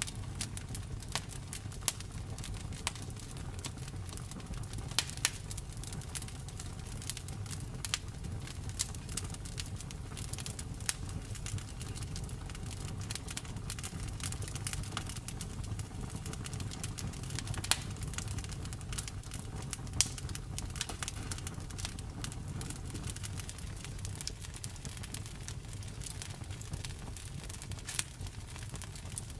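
Wood fire in a fireplace crackling, with frequent sharp pops and snaps over a low steady rumble.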